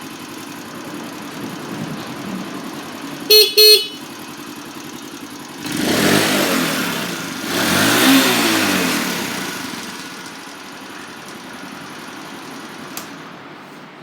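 Honda Super Cub 90's air-cooled single-cylinder four-stroke engine idling. The horn beeps twice in quick succession, then the throttle is blipped twice, the engine rising and falling in pitch each time before settling back to idle.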